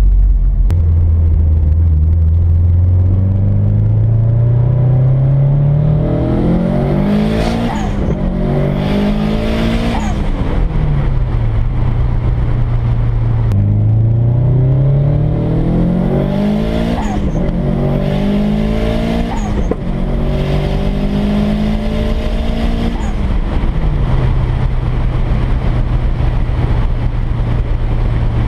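Twin-turbo Subaru WRX flat-four engine accelerating hard through the gears twice, its pitch climbing and dropping back at each upshift. It settles to a steady cruise near the end.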